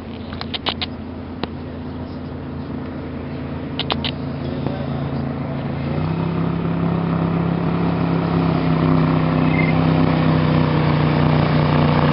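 Motorboat engine running with a steady hum that grows louder from about halfway through. A few sharp clicks come near the start and again about four seconds in.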